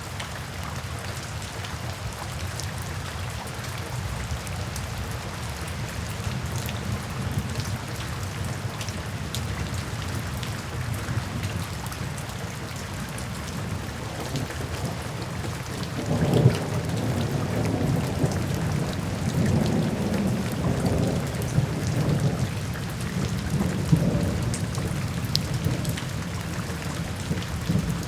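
Steady rain falling. A little past halfway through, a low rumble of thunder rolls in and swells and fades over several seconds.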